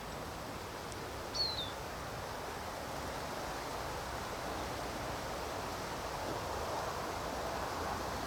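Steady woodland background noise with one short, falling bird chirp about a second and a half in.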